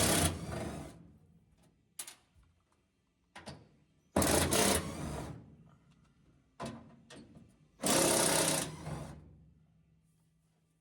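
Power drill running in three short bursts about four seconds apart, drilling holes or driving self-tapping screws into a sheet-metal truck floor panel, with light metal clicks between the bursts.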